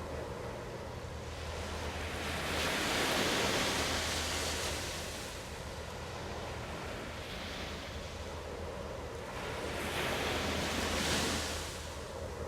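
Waves washing in, the rushing noise swelling twice for a few seconds each time, over a steady low hum.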